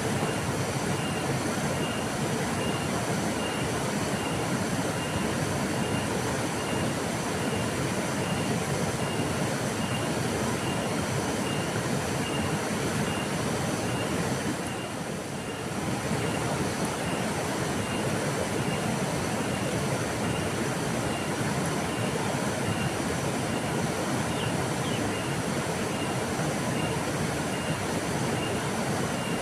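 River water flowing steadily, an even rushing noise, with a faint high chirp pulsing about twice a second over it. The rush dips briefly about halfway through.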